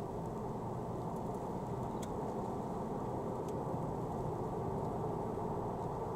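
Steady low rumble of a car driving, engine and tyre noise heard from inside the cabin through a dashcam microphone, with a few faint ticks.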